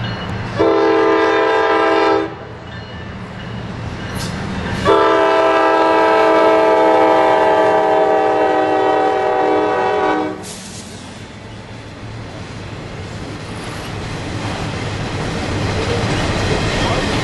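Norfolk Southern freight locomotive sounding its multi-chime horn twice: a short blast, then a long one of about five seconds. Then the freight cars roll past with a clickety-clack of wheels on rail joints, growing louder near the end.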